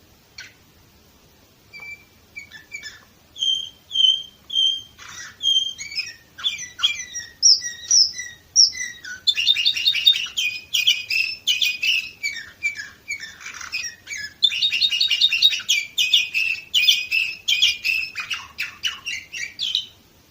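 Domestic canary singing. It opens with a few separate chirps and a run of repeated whistled notes, then breaks into fast, rolling trills about nine seconds in, which carry on until the song stops near the end.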